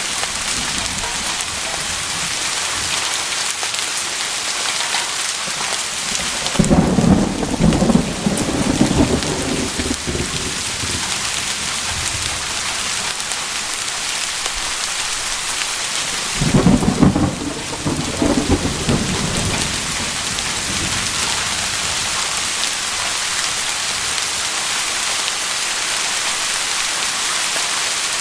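Steady rain hissing down, with two rolls of thunder: one about a quarter of the way in, lasting a few seconds, and another just past the middle.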